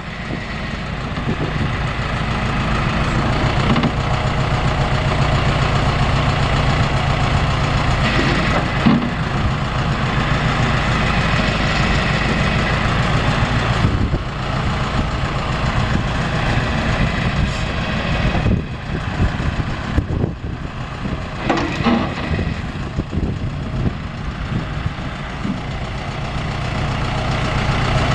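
John Deere 410 loader backhoe's engine running, building up over the first few seconds and then holding steady, with a few short clunks in the second half.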